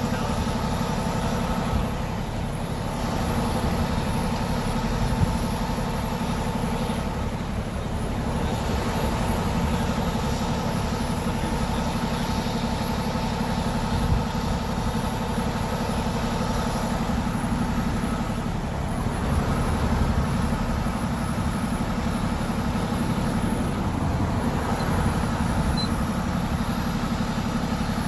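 A vehicle engine idling steadily, a low even hum that does not change through the stretch.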